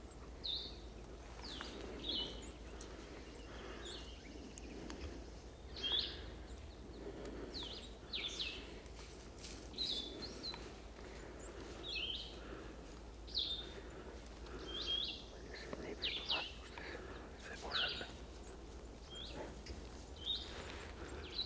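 Small birds chirping: short, high chirps repeated about once a second in spring woods.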